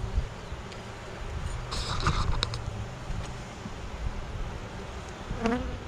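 Honeybees buzzing around an open hive as a steady low hum, with a few light clicks about two seconds in and a brief louder buzz near the end.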